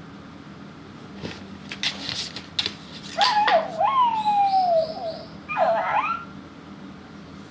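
Light rustling and knocks, then a long whimpering cry that rises and slides down in pitch, followed by a second shorter cry.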